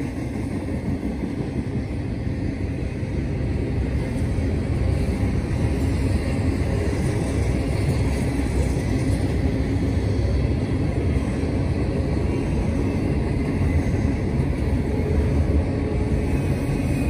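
Double-stack intermodal container train rolling past, a steady low rumble of wheels and well cars on the rails that swells over the first few seconds and then holds.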